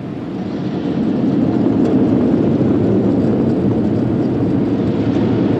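Automatic car wash drying blowers running, a loud steady rush of air heard from inside the car, swelling over about the first second and then holding level.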